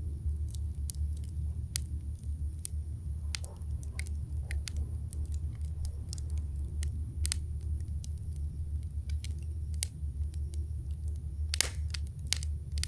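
Wood campfire burning, with sharp crackles and pops scattered irregularly over a steady low rumble, and one louder pop near the end.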